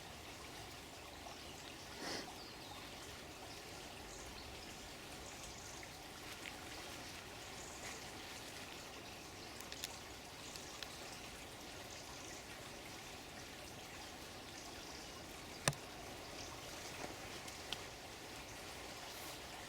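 Water running steadily, like a small stream or trickle, with a sharp click about three-quarters of the way through.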